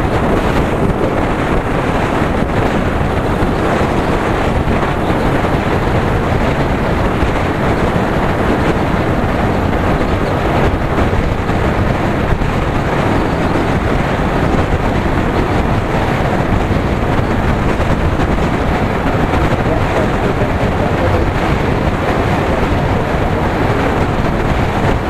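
Wind rushing and buffeting against the microphone of a Yamaha R15 V3 motorcycle on the move, a loud, steady rumble and hiss with the bike's running noise mixed in.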